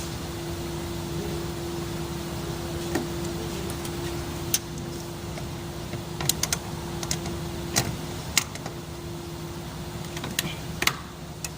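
Hand tools clicking and clinking against engine parts during disassembly: a handful of sharp, short metallic clicks spread over the second half, over a steady low hum.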